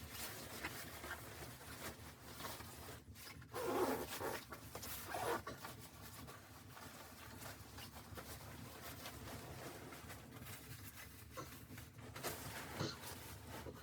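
Quiet handling noises: scattered small clicks and ticks, with two louder rustling, scraping bursts about four and five seconds in.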